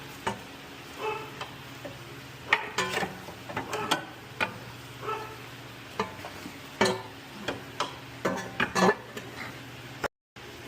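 A dog barking now and then, single short barks, with sharp metallic clinks and knocks of hand tools working on the car's front suspension in between.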